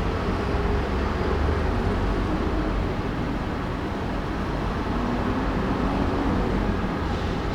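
Steady rumble and hiss of a car driving: engine and road noise, with no distinct events.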